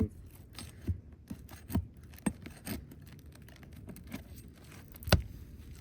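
Hand tools working a roofing nail out from under an asphalt shingle: scattered metal clicks and scraping, with one sharp knock about five seconds in, the loudest sound.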